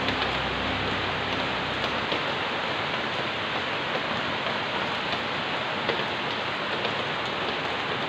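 Rain pouring down: a steady, even hiss of rain on pavement, roofs and leaves, with a few scattered drop ticks.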